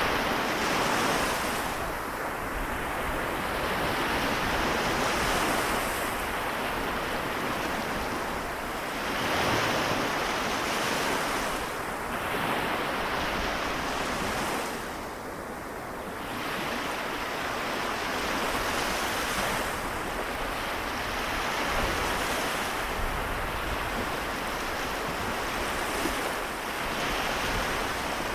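Small waves of the Seto Inland Sea washing onto the shore, a continuous surf hiss that swells and eases every few seconds, with some wind rumble on the microphone.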